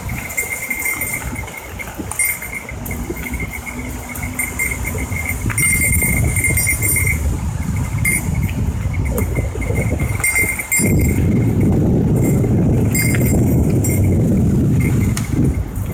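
Mountain bike rolling along a rough forest trail: a loud low rumble of tyres and wind on the microphone, with a small bell jingling over and over as the bike shakes.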